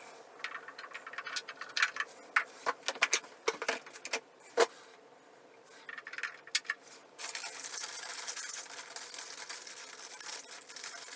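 Light clicks, clinks and knocks of hardware and parts being handled, most of them in the first five seconds. About seven seconds in, a steady hiss starts and keeps on.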